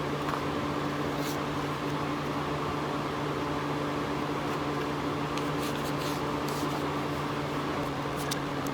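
Steady hum of a fan running, with a few faint crackles and ticks of masking tape being handled, about a second in and again from about five and a half seconds on.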